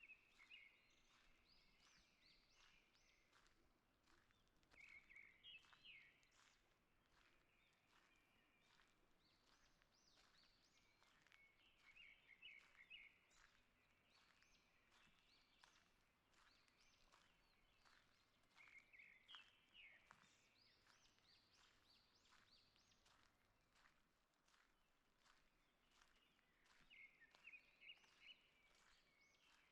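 Songbirds singing in a forest. One bird repeats a short song phrase about every seven seconds, with other chirps scattered between.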